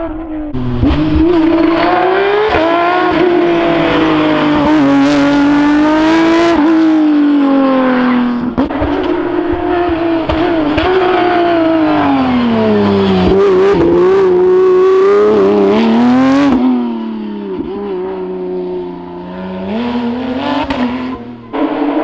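Porsche rally car engine under hard acceleration, its pitch climbing and falling again and again as it shifts up and brakes down for corners. About 16 seconds in it lifts off and runs quieter and lower, then picks up again near the end.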